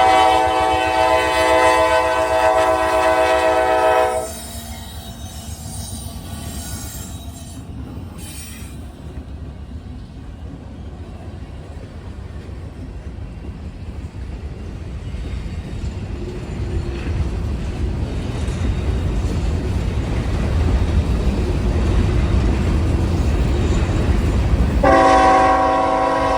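Diesel freight locomotive's air horn sounding a chord of several notes for about four seconds, then the low rumble of a freight train passing, building louder, and the horn again near the end.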